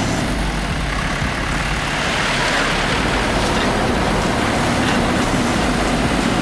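Heavy vehicle engine running steadily under a dense, even noise with a low rumble.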